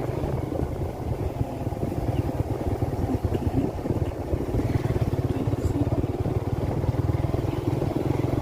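Motorcycle running steadily on the move, a continuous low engine rumble.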